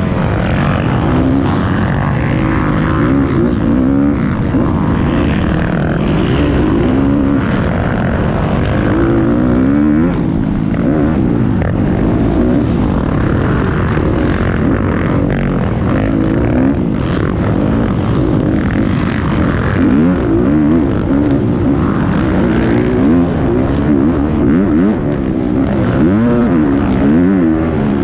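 Several motocross bikes racing at once, their engines revving up and down as they accelerate and shift, with the overlapping notes constantly rising and falling.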